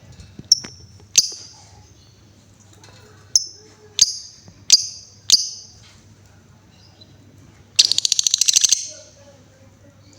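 Female lovebird calling: six sharp, high chirps spaced through the first six seconds, then a rapid rattling chatter (ngekek) of about a second near the end. A faint steady hum lies underneath.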